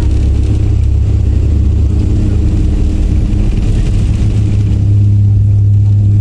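Airliner engines heard inside the passenger cabin during the climb after takeoff: a loud, steady rumble with a low hum that grows a little stronger about five seconds in.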